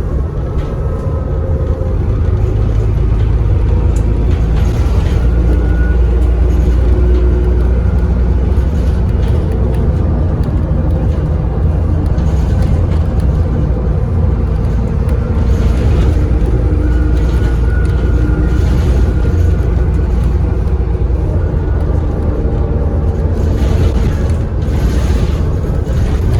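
A Dennis Trident double-decker bus's diesel engine heard from on board, pulling steadily at road speed with a heavy low drone. A faint turbo whistle rises over it about five seconds in and again about sixteen seconds in.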